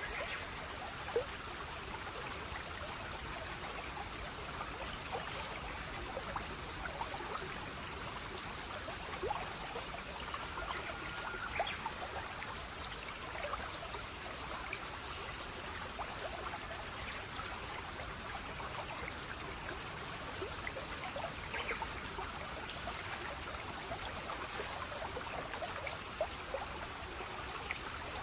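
Running water of a small stream, trickling and splashing steadily, with many small droplet plinks throughout.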